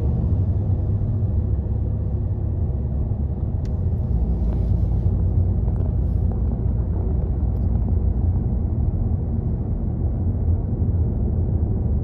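Steady low rumble of road and engine noise heard from inside a car cruising on a highway, with a few faint light ticks.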